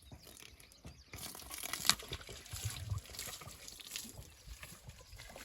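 Water splashing and trickling, broken by scattered small knocks and clicks.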